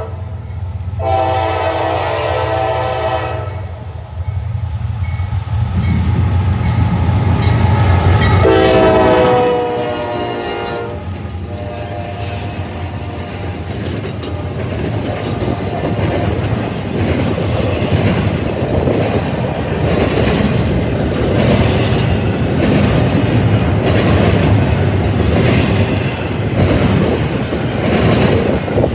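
Norfolk Southern freight train passing: the lead locomotives sound their air horn in two long blasts about six seconds apart over the deep running of their diesel engines. Then the double-stack intermodal cars roll by with a steady rush and rhythmic clickety-clack of wheels over the rail joints.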